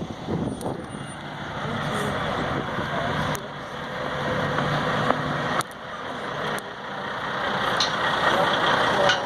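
Heavy-haul truck with a long multi-axle trailer rolling past: a steady mix of diesel engine and tyre noise that grows louder over the last few seconds.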